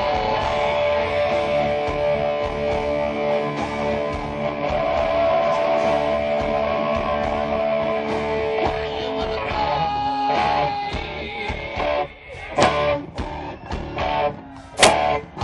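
Live rock band, led by electric guitar: full held chords ring out for most of the stretch, then a little past the middle the playing thins to single sharp strummed guitar chords with short pauses between them.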